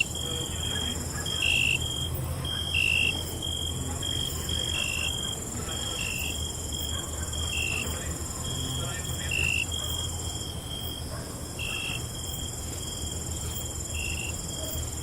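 Crickets chirping: a steady high trill with a shorter, lower chirp repeating about every second and a half, over a low steady rumble.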